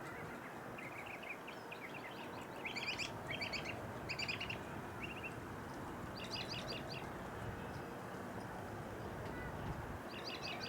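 Northern mockingbird singing: groups of quick, repeated high notes with short pauses between them, over a steady low background rumble.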